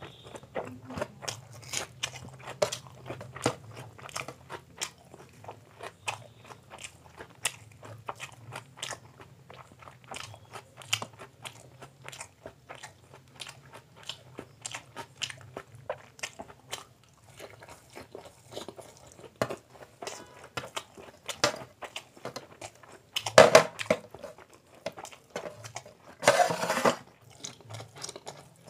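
Close-miked chewing and wet mouth sounds of someone eating soft egg omelette by hand, a steady run of short smacking clicks. Two louder, longer noisy sounds come near the end.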